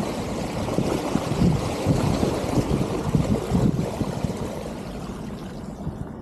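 Rushing, rumbling noise of a rigid single-speed mountain bike being ridden, with wind buffeting the chest-mounted camera's microphone. It eases off near the end.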